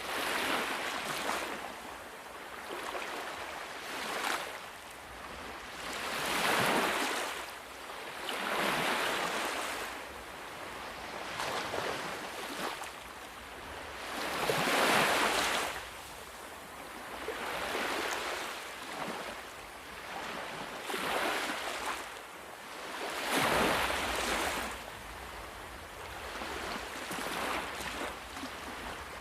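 Ocean surf: waves breaking and washing up the shore, the hiss swelling and fading every few seconds.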